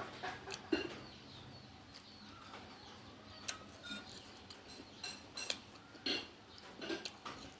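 A spoon and chopsticks clinking and knocking against a noodle bowl in scattered, irregular taps while eating.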